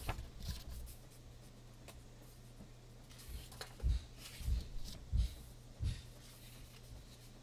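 Paper rustling as coloring book pages are handled and turned, with four soft, dull thumps in the middle stretch.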